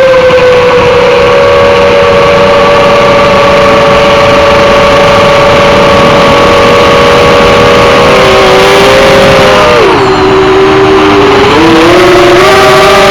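Racing quadcopter's brushless motors whining under a loud rushing noise. The pitch holds nearly steady, dips about ten seconds in as the throttle comes off, then climbs back up in steps.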